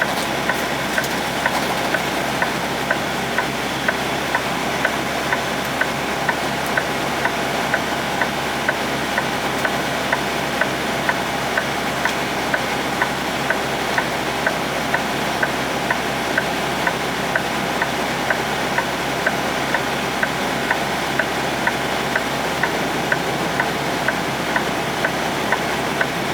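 Tractor-trailer's diesel engine idling, heard inside the cab, with a flasher relay clicking steadily about twice a second.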